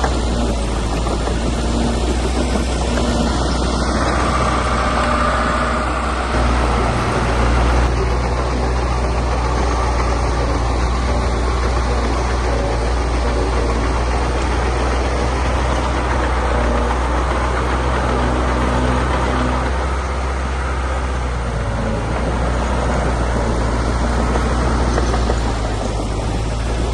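Heavy diesel engine of earthmoving machinery running as a steady, deep drone, its note shifting slightly a few times as the load changes.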